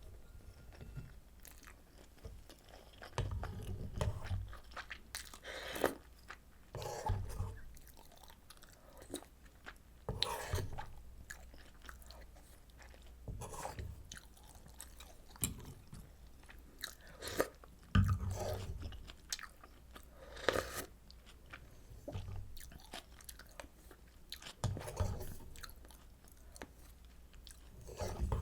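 Close-miked chewing of pork kimchi stew and rolled omelet, in bursts every few seconds with some crunching.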